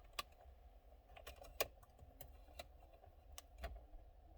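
Faint, irregular clicks and light taps of a hand tool twisting at a fastener behind a car's steering wheel, working the airbag loose.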